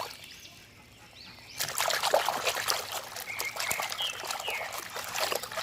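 Water pouring and splashing over a muddy plastic toy as it is rinsed, with small clicks and knocks of handling. It starts after about a second and a half of near quiet.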